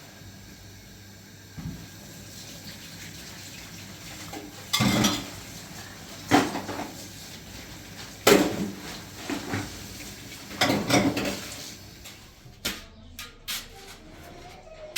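Household clatter: hard objects knocked and handled in four or five loud bursts about two seconds apart, then a few sharp clicks near the end.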